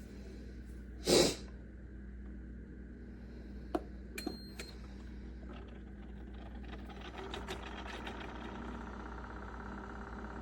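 Coffee maker working: a short burst of hiss about a second in, a click, then a single short electronic beep a little after four seconds, followed by a steady whirring hum that grows louder from about seven seconds.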